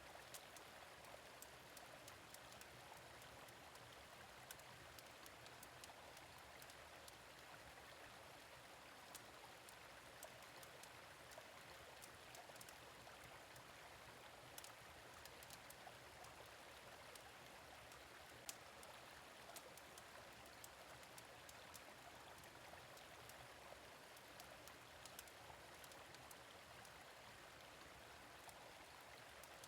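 A gentle stream running steadily, with scattered sharp crackles and pops of a wood fire.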